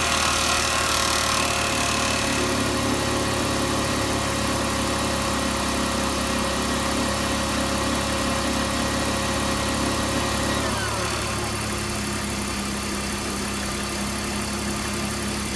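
2001 BMW 325Ci's inline-six idling after a cold start, with a metallic buzzing on top of the engine sound. About ten and a half seconds in, a falling tone marks the idle speed dropping and settling.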